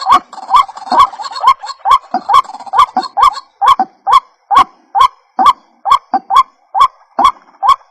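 White-breasted waterhen (ruak-ruak) calling over and over: short, sharply starting notes that sweep upward, about two a second, in an unbroken string.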